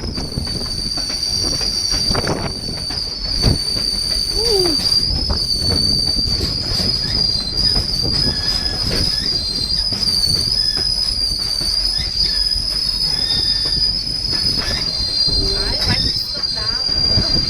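Steel wheels of a narrow-gauge White Pass & Yukon Route passenger train squealing against the rails in a steady high whine, over the low rumble of the rolling cars, with a few brief knocks.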